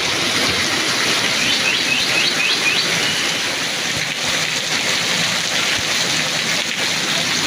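Heavy rain falling steadily, an even loud hiss, with a quick run of faint high chirps about a second and a half in.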